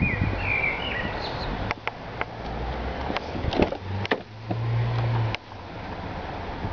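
Sounds around a car: a few sharp clicks and knocks, and about a second of steady low hum past the middle that cuts off suddenly.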